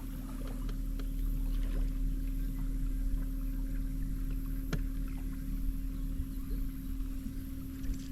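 Boat motor running steadily at an even pitch, switching on abruptly at the start, with one sharp click about halfway through.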